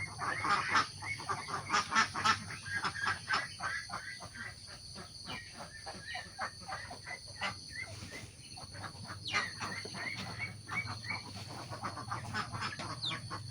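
A flock of domestic ducks quacking, many short calls in quick succession.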